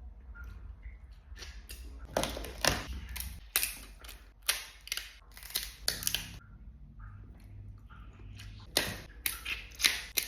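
Snow crab shell being cracked and broken apart: a string of sharp cracks and snaps in several bursts.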